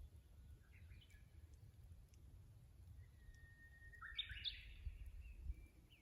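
Japanese bush warbler (uguisu) singing faintly. A short call comes about half a second in, then about three seconds in its full song: one long steady whistle followed by a quick rising flourish, the 'hoo-hokekyo'. A low steady rumble of outdoor noise runs underneath.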